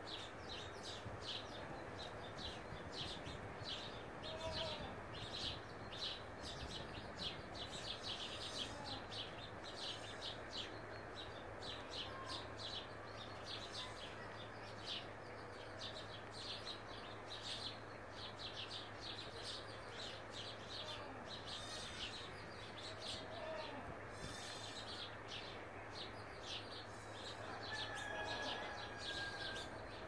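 Small birds chirping continuously, several quick high chirps a second, with a few lower calls now and then. A steady low hum runs underneath.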